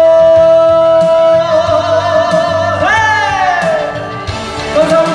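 A trot singer holds the final note of the song over a karaoke backing track. The note is held steady, then wavers with vibrato and slides down in pitch about three seconds in, before the backing music plays on.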